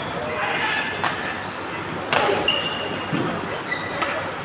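Badminton rackets striking the shuttlecock in a rally: three sharp cracks about a second apart, the loudest a little past the middle. Short squeaks of shoes on the court floor, over a background of voices in a large hall.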